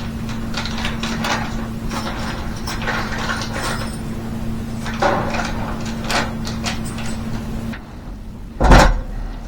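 Small clicks and rattles of mounting hardware being handled, over a steady hum that cuts off near the end, followed by a single loud knock.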